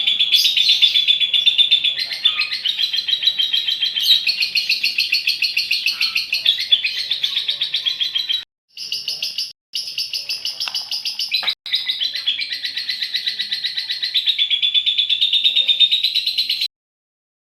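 Female lovebird giving its long, fast chattering trill (ngekek panjang), a rapid high-pitched stream of chirps. It breaks off briefly twice and cuts off suddenly near the end.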